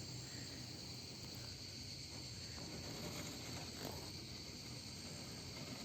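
Faint, steady insect chorus, a constant high-pitched chirring like crickets.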